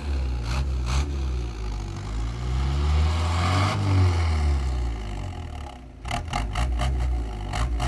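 Ford car engine through a free-flow aftermarket exhaust being revved: the note rises about three seconds in and drops back, dips briefly near six seconds, then a quick run of sharp cracks near the end.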